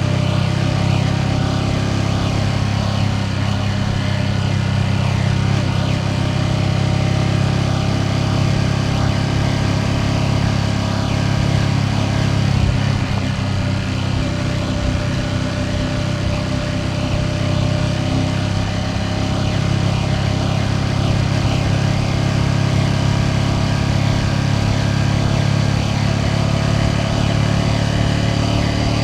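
Ducati Panigale V2S V-twin engine running at a steady cruise, its note holding a nearly constant pitch with small rises and falls.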